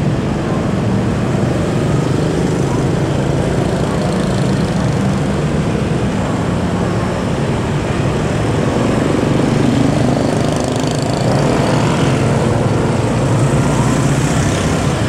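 Freight train of container flat wagons rolling slowly over curving track, a steady rumble of wheels and rails with a low engine drone underneath.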